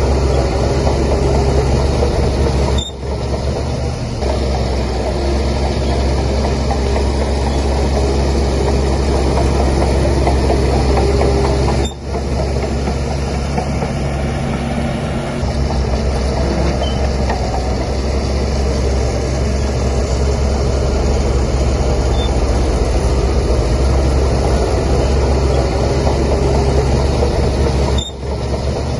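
Bulldozer's heavy diesel engine running steadily with a deep, continuous rumble. The sound dips sharply for a moment three times, about 3, 12 and 28 seconds in.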